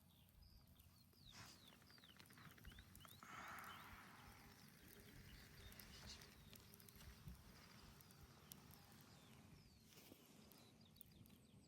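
Near silence with faint bird chirps: many short, quick, downward-sliding chirps repeated throughout, with a brief soft hiss about three seconds in.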